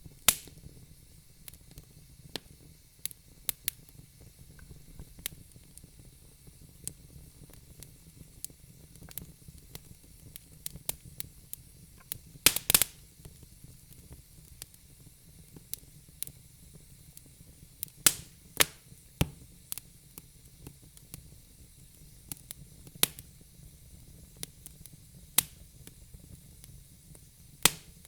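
Wood fire burning in a fireplace: irregular sharp crackles and pops, a quick cluster about halfway through, over a faint low hiss of the flames.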